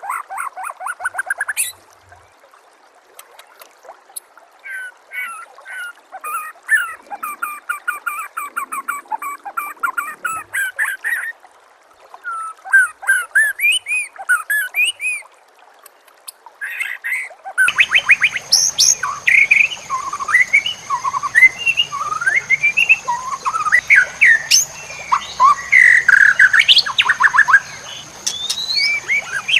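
White-rumped shama (murai batu) song: bursts of fast repeated-note trills and rattles with short pauses. About two-thirds of the way through, the sound cuts abruptly to another recording of quick whistled, gliding phrases over a steady high-pitched tone and low background noise.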